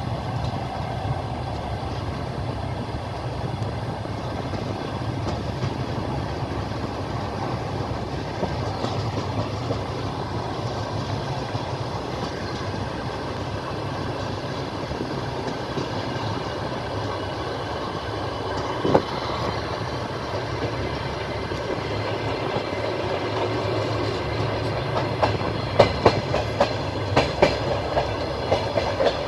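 Train wheels clattering over rail joints on a moving train, with a steady low rumble and a run of sharper clicks near the end.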